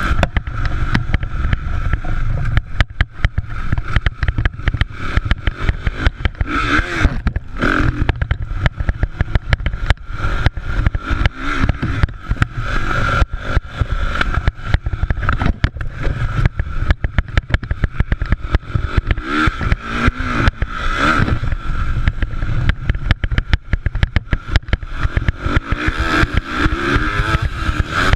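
Motocross motorcycle engines running at high revs, rising and falling in pitch several times as riders go on and off the throttle, over a constant rough crackle and rumble.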